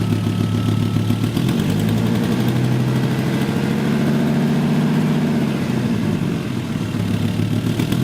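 Volvo 850's 2.5-litre 20-valve five-cylinder engine idling. The revs rise a little about two seconds in and settle back about five and a half seconds in. Its noise comes from an exhaust manifold gasket leaking at cylinder 2, not from the lifters.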